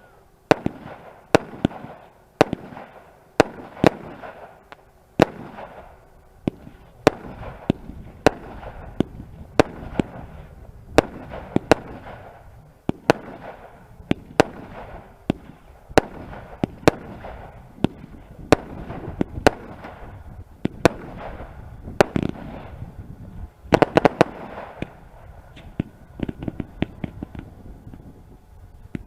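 Fireworks going off: a steady run of sharp bangs, roughly one or two a second, with crackling between them. A dense flurry of bangs comes about three-quarters of the way through, then lighter, quicker crackles near the end.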